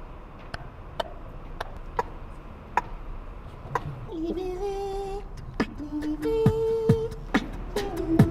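Beatboxing: sharp mouth clicks keep a beat about twice a second, and from about four seconds in a hummed melody of held notes, stepping between pitches, comes in over the beat.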